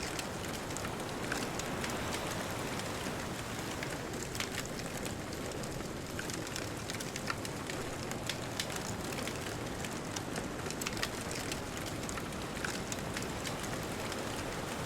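Bonfire crackling, with frequent irregular sharp pops and snaps, over a steady rush of distant ocean surf.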